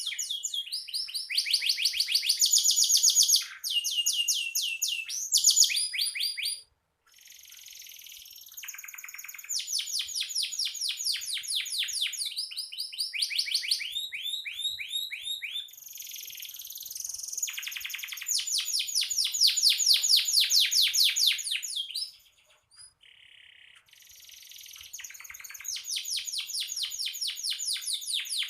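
Canary singing a vigorous, continuous song of fast trills: each phrase a rapid run of repeated notes, shifting in pitch and pattern every second or few. There are short breaks about a quarter of the way in and again a little past three quarters.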